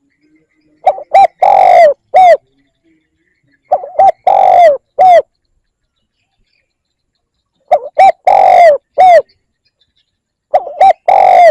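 Spotted dove cooing the territorial song used as a decoy call to draw in wild doves. It repeats four times, about every three seconds: two short coos, a long drawn-out coo, then a short closing coo.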